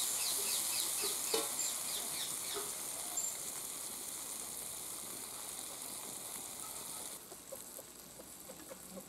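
Spiced potato and tomato curry sizzling in oil in a kadai over a wood fire while a metal spatula stirs it. The sizzle is strongest at first and fades about seven seconds in.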